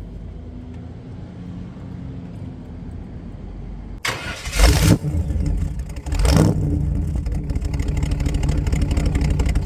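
1938 Chevy truck's engine: a low rumble, then much louder about four seconds in, with two sharp revs about two seconds apart before it settles into a steady run.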